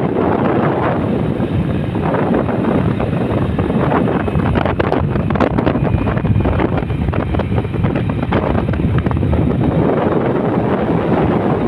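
Wind buffeting the microphone: a loud, steady rumble with no clear pitch.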